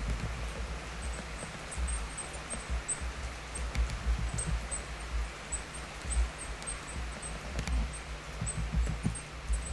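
Steady rush of water falling at the partly frozen Hossawa Falls, with uneven low gusts of wind buffeting the microphone.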